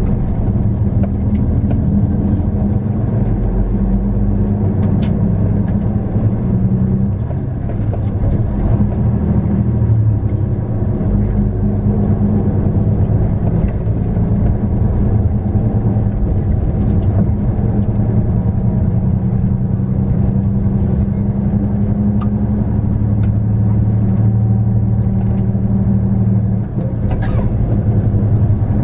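A 2001 Hino Melpha 7 midi bus running on the road, with a steady low diesel engine drone and light rattles and clicks. Near the end there is a brief drop in level with a sharper click.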